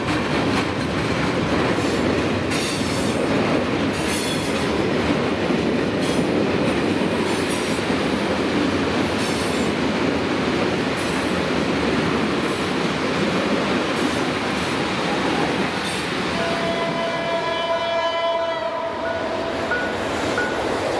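Freight train of container wagons rolling past a level crossing, wheels clattering over the rail joints with a heavy rumble. About 16 seconds in, a locomotive horn sounds one steady note for a couple of seconds. Near the end, as the train noise thins, the crossing's electronic warning signal (DEPK-08) beeps repeatedly, about twice a second.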